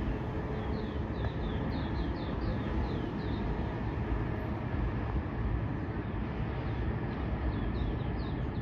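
Birds chirping: a run of short, high, downward-sliding chirps in the first few seconds and again near the end, over a steady low rumble.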